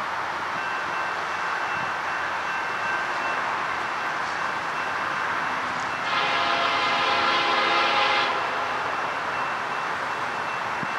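A train rolls steadily past. About six seconds in, the locomotive horn sounds one blast of about two seconds, a chord of several tones.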